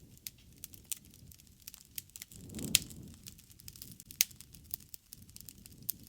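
Wood campfire crackling: a steady run of small sharp pops over a soft low rush of flame. Louder snaps come just under three seconds in and again about four seconds in.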